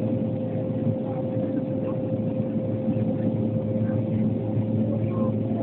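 Steady drone of the Antonov An-140's twin turboprop engines and propellers, holding one constant droning tone with no change in level.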